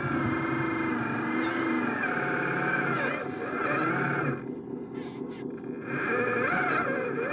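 Whining electric motors of a radio-controlled construction model, their pitch rising and falling as the load changes. The upper part of the whine drops away for about a second and a half a little past the middle, then comes back.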